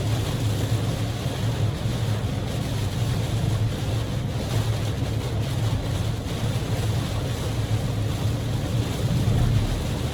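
Steady in-cabin driving noise of a Daihatsu Move L150S in torrential rain: rain beating on the car and tyres hissing on the flooded road, over a low drone of road and engine noise.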